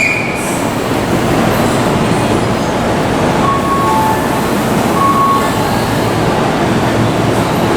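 Tobu 50000 series electric train running on the rails, a steady rumble with a few short, faint squeaks in the middle.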